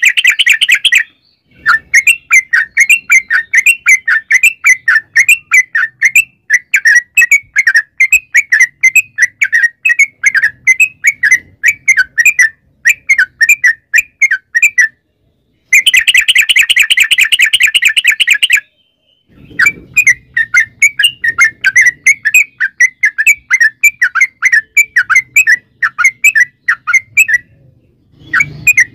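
Yellow-vented bulbul singing a long, rapid run of loud chattering notes, several a second, in long runs broken by short silent gaps, with two stretches of denser, buzzier rapid notes near the start and just past the middle.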